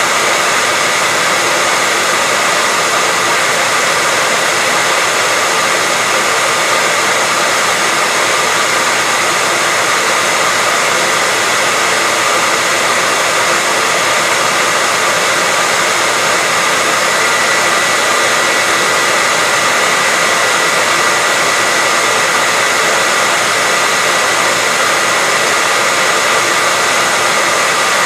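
Hair dryer running steadily, a continuous even rush of air with a faint steady whine from its motor.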